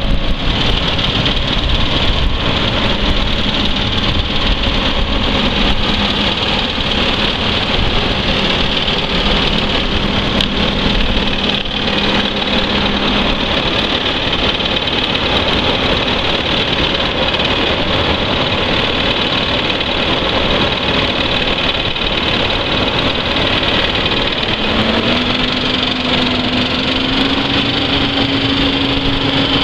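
Case IH Magnum 280 tractor's six-cylinder diesel engine running steadily at low speed, its pitch rising a little about 25 seconds in.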